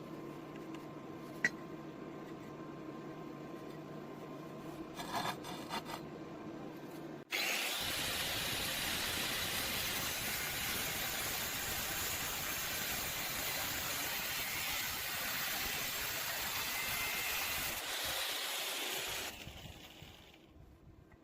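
A low steady hum with a single click and a short rattle. About seven seconds in, a power tool cutting iron angle starts abruptly with a loud, steady noise that lasts about twelve seconds, then dies away near the end.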